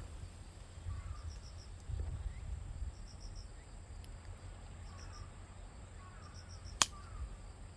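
Insects chirping in short groups of rapid high pulses, several times, with faint short falling bird calls and a low steady rumble underneath. A single sharp click, the loudest sound, comes about seven seconds in.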